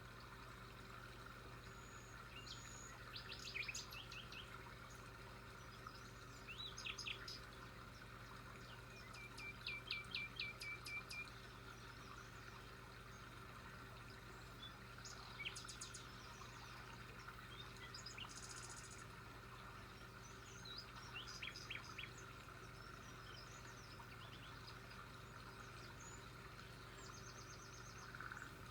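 Small birds chirping and trilling now and then, in short separate phrases over a faint steady background hiss.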